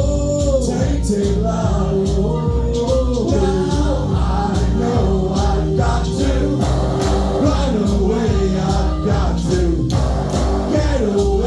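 Band playing live, with singing over a steady, regular drum beat.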